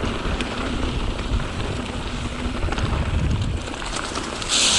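Mountain bike rolling down a rocky trail: tyres crunching over dirt and stones, with a constant clatter of small knocks from the bike. Near the end a sudden loud hiss sets in as the tyres run into a pile of dry leaves.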